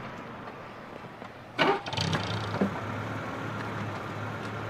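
A sharp clunk about one and a half seconds in, then a car engine running with a steady low hum.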